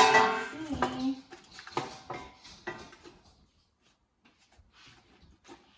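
A voice briefly at the start, then a run of light knocks and clicks from objects being handled, fading to a few faint ticks.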